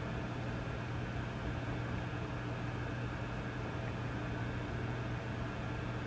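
Vintage tube amplifier switched on with nothing playing: a steady low hum with a constant hiss of static over it.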